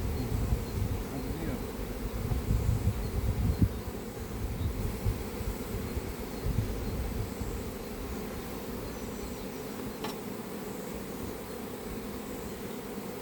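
A swarm of honeybees buzzing steadily around an open hive, a continuous hum. Low rumbling bumps run under it for the first seven seconds or so, then die away.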